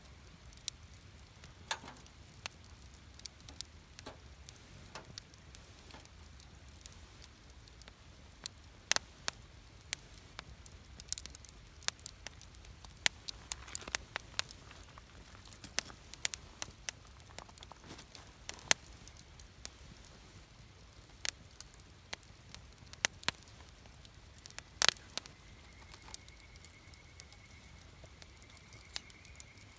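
Wood campfire crackling, with irregular sharp pops and snaps, a few of them much louder. A faint thin high whistle comes in near the end.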